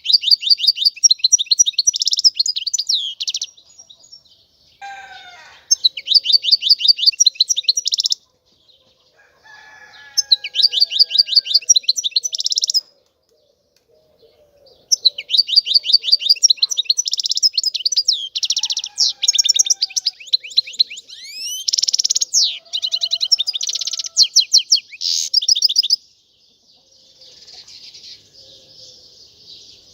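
European goldfinch singing: bursts of rapid, high twittering song several seconds long, separated by short pauses, with the longest run of about ten seconds in the second half. Near the end the song stops, leaving a fainter, even high hiss.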